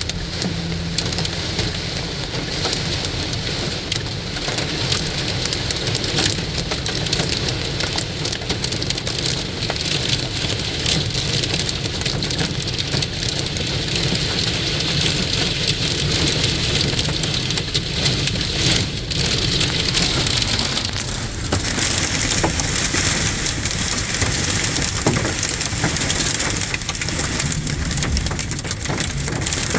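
Heavy rain falling in a steady downpour, a continuous hiss that turns brighter about two-thirds of the way in.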